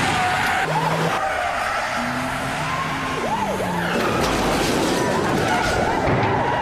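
Car chase sound: car tyres squealing again and again in short rising-and-falling screeches over a running engine and road noise.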